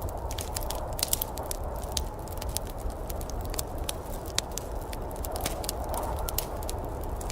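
Wood fire crackling in a fireplace, with many irregular sharp pops and snaps over a steady low rumble and hiss.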